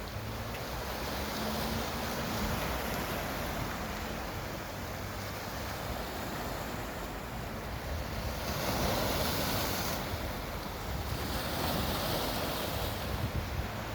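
Ocean surf breaking and washing up the beach, swelling louder twice in the second half, with wind rumbling on the microphone.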